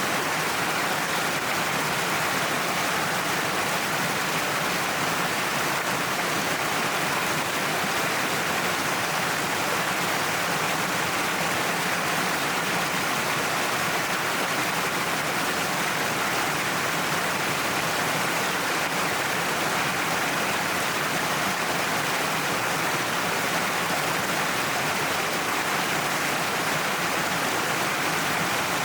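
Waterfall pouring down a cliff face, a steady, even rush of falling water.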